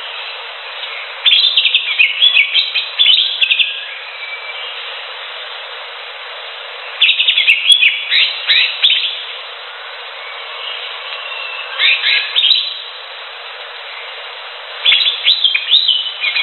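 Greater green leafbird (cucak hijau) singing in four bursts of quick, sweeping chirping phrases, each a second or two long, over a steady hiss.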